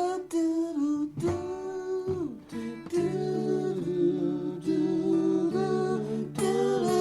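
Acoustic guitar duet, a slide guitar over a nylon-string guitar, playing a gentle folk-style passage, with wordless "doo doo" vocal humming in the first seconds. A sliding note falls about two seconds in, and plucked chords ring on after it.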